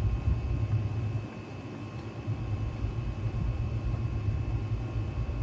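A low, uneven rumble with a faint steady high hum underneath; the rumble dips for about a second near the start.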